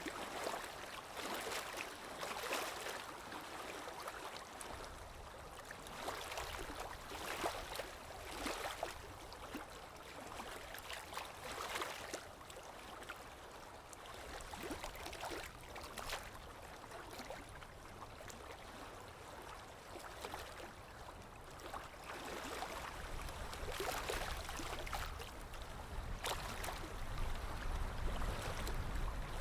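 Water sounds: running, splashing water that swells irregularly every second or two, with a low rumble building near the end.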